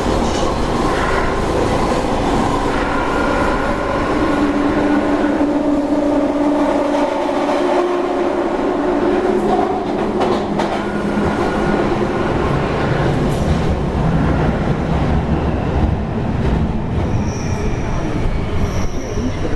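London Underground 1996 Stock train running on the Jubilee line: a steady rumble of wheels on rail with a held whine and some wheel squeal.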